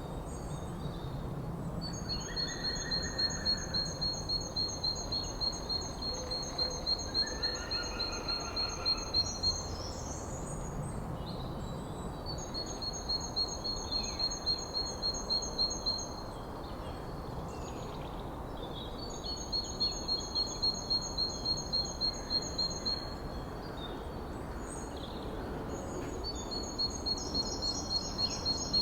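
Forest birdsong: a bird repeats a high, sharp chirp about twice a second in runs of several seconds, broken by short pauses. A few brief lower calls from other birds come in the first ten seconds, over a steady background hiss.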